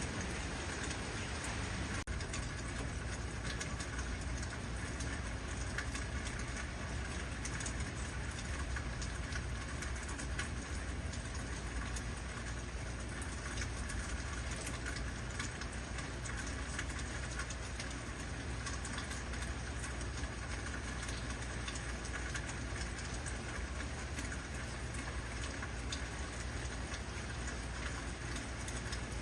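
Heavy rain falling steadily, a dense, even patter of drops, with a steady low rumble underneath.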